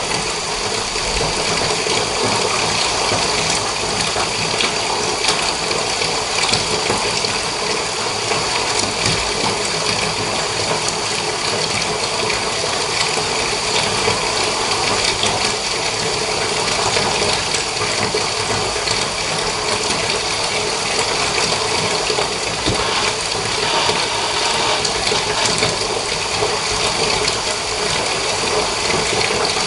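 Water running steadily from a tap into a bathtub, a constant even splashing with no break.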